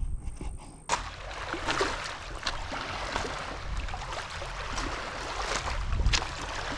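Water lapping and splashing at a lakeshore: a steady wash with many small crackles. It begins abruptly about a second in.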